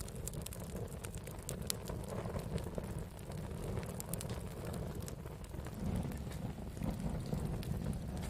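Wood fire burning with a steady low rumble, broken by scattered sharp crackles and pops that come most often in the first two seconds.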